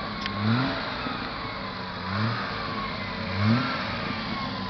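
Triumph GT6 MkIII's two-litre straight-six idling, revved briefly three times, each blip a short rise in pitch that falls back to idle.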